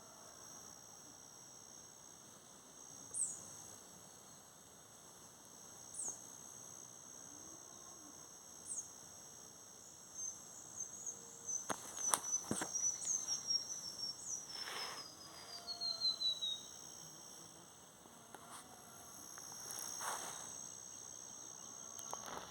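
Riverside nature ambience: insects chirring steadily at a high pitch. Bird calls sound over it: three short falling whistles a few seconds apart, then a long descending trill of notes through the middle. A couple of sharp knocks come about halfway through.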